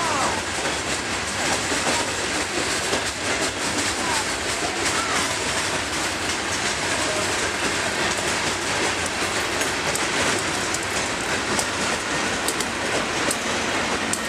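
Freight train's open-top hopper cars rolling past at close range: a steady, loud rolling noise of steel wheels on rail, with a few faint, brief wheel squeals.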